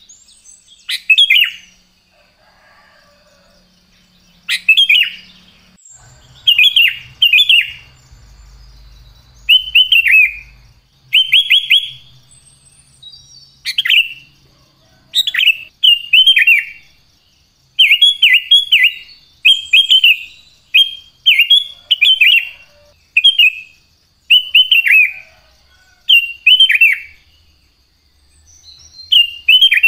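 Sooty-headed bulbul (kutilang) singing: short, loud whistled phrases that drop in pitch, repeated every second or two. A faint steady high tone runs beneath.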